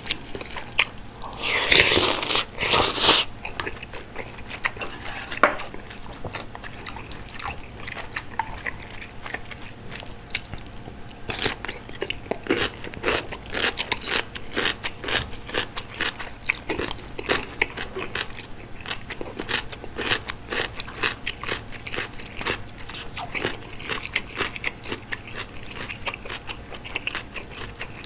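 Close-miked eating sounds from someone eating bulgogi hot pot: steady chewing with many small wet clicks and crunches. About two and three seconds in come two louder, noisier bursts.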